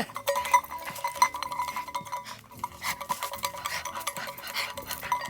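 Rapid light clicks and clinks of small hard objects, over quiet background music.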